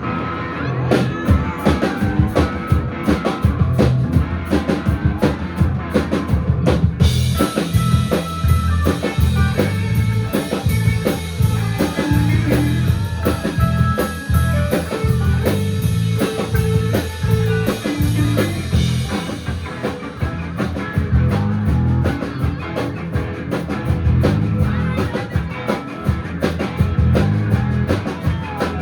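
Live rock band playing an instrumental passage: electric guitars, bass and a drum kit keeping a steady beat, with the cymbals coming in brighter about a quarter of the way through and dropping back near two-thirds.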